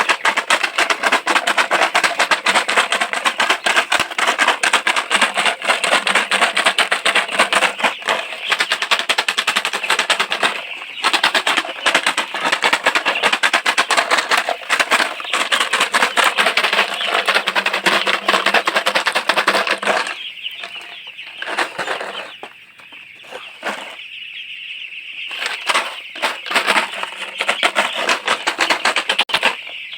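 A flock of desi chickens clucking and calling without a break, many birds at once. The flock grows quieter and thinner for a few seconds about two-thirds of the way through.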